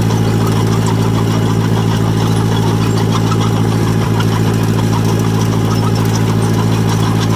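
John Deere 1010 crawler dozer's engine running steadily with a constant, even note; the carburetted engine is running a little rich.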